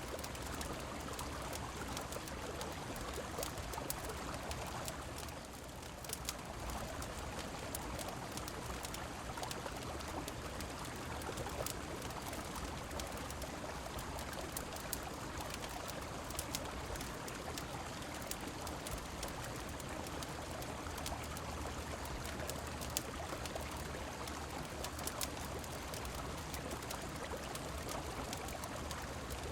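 Steady rushing of a river and falling rain, with scattered sharp crackles and pops from a wood fire on top. The water noise dips slightly for a moment about five seconds in.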